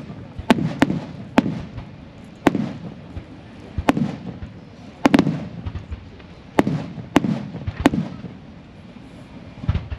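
Aerial firework shells bursting one after another, about ten sharp bangs at uneven intervals, each trailing off in a low rumbling echo.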